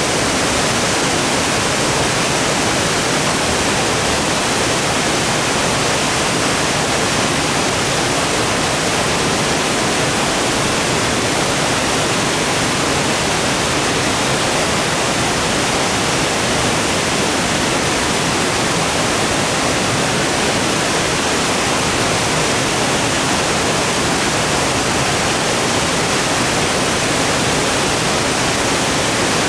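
Waterfall: a steady, unbroken rush of falling water, loud and even, with no changes.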